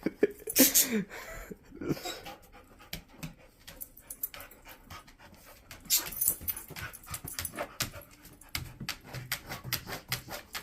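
A dog panting in quick short breaths, busiest in the second half.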